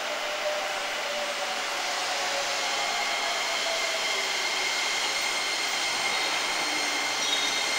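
JR 205 series electric train pulling into a station platform and slowing, a steady whirr with thin whining tones, one sinking slightly in pitch, growing a little louder as it draws near.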